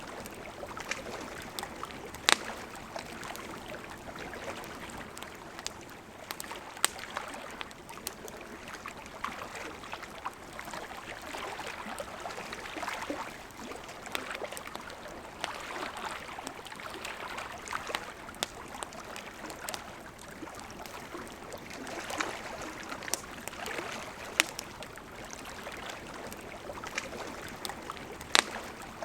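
Campfire crackling, with sharp pops every few seconds and finer snaps between them, over the steady rush of a flowing river.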